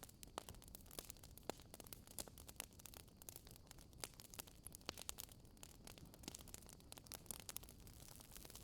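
Wood fire burning quietly, with scattered small crackles and snaps, a few sharper pops, over a faint hiss.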